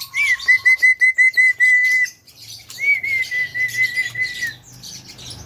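Javan myna (jalak kebo) calling: two runs of quick, short whistled notes at one pitch, about five a second. Each run opens with a note that rises and falls, and there is a pause of about a second between the runs.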